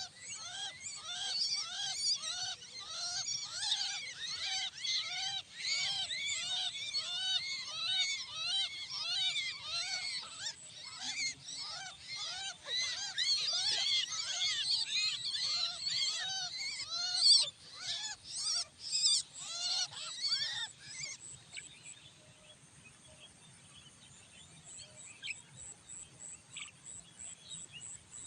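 Jalak starlings calling: a harsh call repeated about twice a second over dense higher chattering. The calling cuts off about 21 seconds in, leaving a faint high, even ticking.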